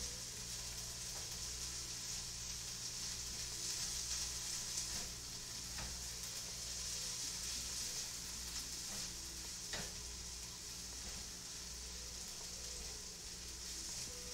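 Corn kernels frying in a hot pan: a steady sizzle, with a few light clicks about 1, 6 and 10 seconds in.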